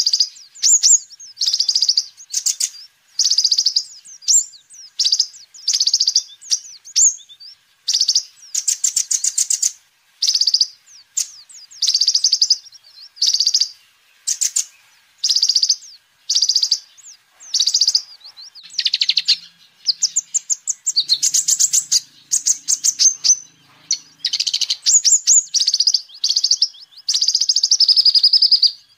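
Kolibri ninja sunbird singing: a rapid run of short, high, trilled and chittering phrases, about one a second, with brief pauses between them.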